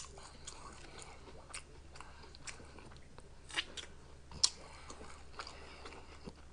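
Close-miked chewing of a fried fish sandwich: soft, scattered wet mouth clicks and smacks, with a couple of sharper clicks a little past halfway.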